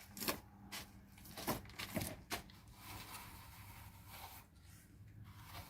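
Plastering tool scraping and smoothing a fresh plaster coat on an adobe wall: a series of short scrapes at uneven intervals, most of them in the first half.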